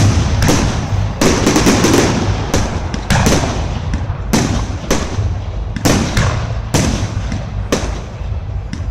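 Fireworks going off in a rapid, irregular string of loud bangs and crackles, several a second, over a continuous rumble.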